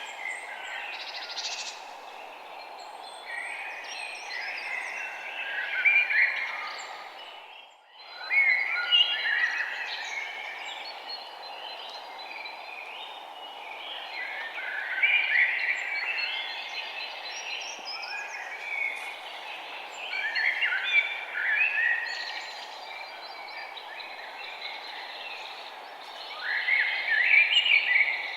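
Several songbirds chirping and calling in quick overlapping bursts over a steady low background noise. The sound drops out briefly about eight seconds in.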